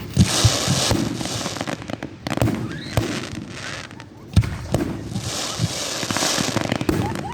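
Fireworks going off: a string of sharp bangs, with two long stretches of dense crackling, one in the first two seconds and one in the second half.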